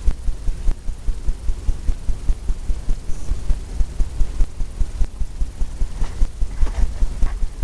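A paintbrush tapping and dabbing oil paint onto a stretched canvas, making low, regular thumps about three to four a second, with some brush scrubbing near the end.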